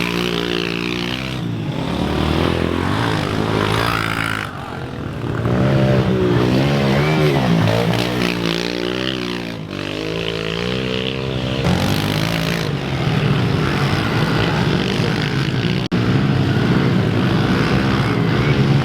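Pit bike engines running and revving, their pitch rising and falling again and again as the bikes are ridden hard through mud.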